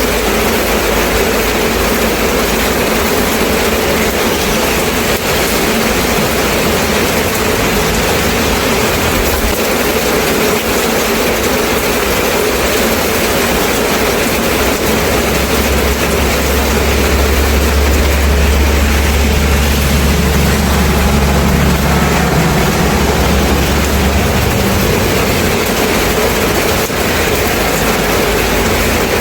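Steady rain, with a low engine rumble of a passing vehicle joining about halfway through and dying away after about ten seconds.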